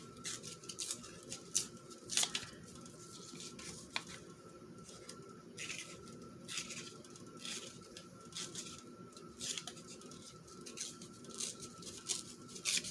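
Paper being torn by hand in a series of short rips and rustles, tearing out a printed bird picture.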